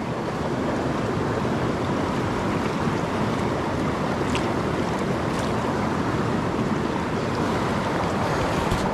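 Fast-flowing mountain creek rushing over rocks, a steady loud rush of water.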